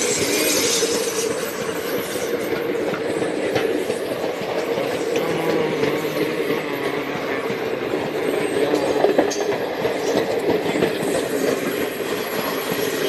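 Diesel-hauled train passing slowly, its wheels running steadily on the rails.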